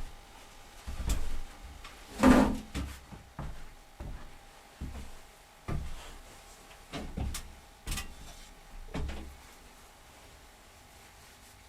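A series of irregular knocks and bumps, as of objects being handled and set down, the loudest about two seconds in.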